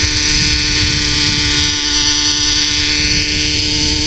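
Radio-controlled Mongoose model helicopter running steadily, its motor and rotor giving a high-pitched whine that holds one pitch, with a low rumble underneath.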